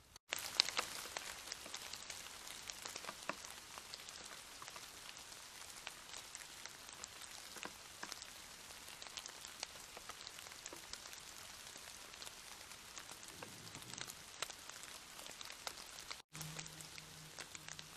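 Steady rain pattering, a dense hiss of many small drop impacts. The sound breaks off abruptly twice, about a quarter second in and near the end, and after the second break a low steady hum runs under the rain.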